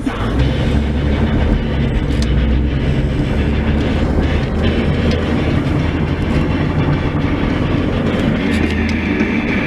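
Chevrolet K1500 pickup's 6.5-litre turbodiesel V8 running, a steady low rumble with noise mixed in.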